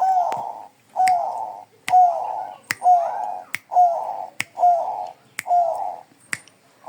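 Bangkok-type zebra dove (perkutut) cooing: eight short coos in a row, roughly one a second and coming a little faster towards the end, each with a sharp click alongside.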